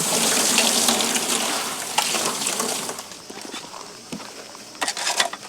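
Water running in a steady hiss that stops about three seconds in, followed by a few light clicks and knocks.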